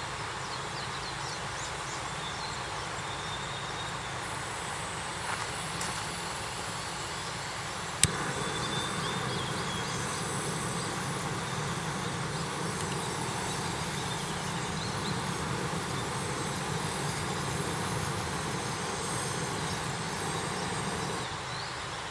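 Steady outdoor ambience: a high insect drone, a few short bird chirps, and one sharp crack about eight seconds in.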